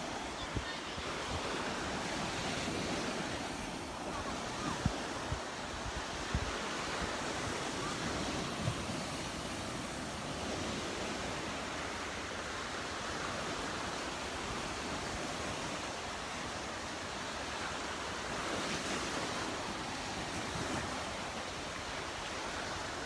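Gulf of Mexico surf washing onto the beach, a steady rush that swells and eases every several seconds, with wind buffeting the microphone and a few short low thumps in the first several seconds.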